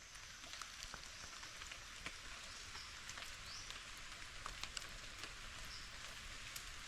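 Light rain pattering on forest leaves: a steady hiss with scattered faint ticks of drops. A few short, high rising chirps, likely birds, come through it.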